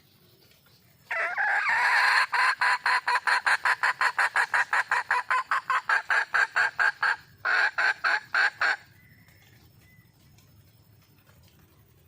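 Red junglefowl hen calling, the call the title gives as a hen calling for a male: a drawn-out opening note about a second in, then a fast, even run of clucks at about five a second. The run breaks briefly, ends in a final short burst, and stops about three seconds before the end.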